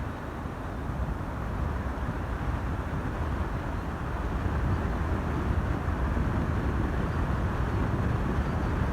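Wind buffeting the microphone of a camera riding along on a road bike, a steady low rumble of rushing air.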